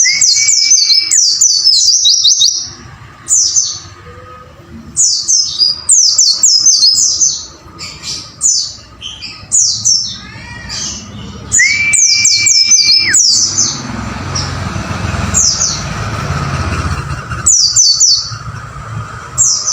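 White-eye (pleci) song used as a masteran tutor recording: quick series of high, sharply falling chirps repeated again and again, broken twice by a long level whistle.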